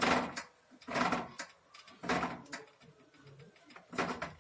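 Tools and metal parts of a gas water heater being worked: four short knocks and scrapes at irregular intervals as a pipe fitting is tightened and adjusted.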